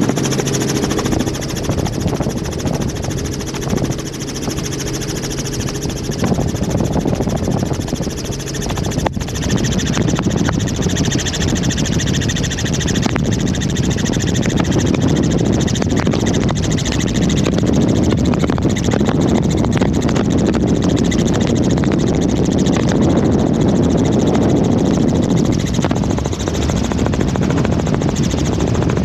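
Helicopter in flight, heard from aboard: the steady drone of the rotor and turbine, with an even hum for about the first eight seconds that then gives way to a rougher, rushing noise.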